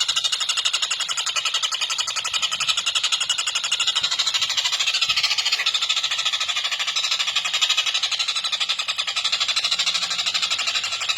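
Tengkek buto kingfisher giving its long cackling call, a very fast, even chatter that runs on without a break.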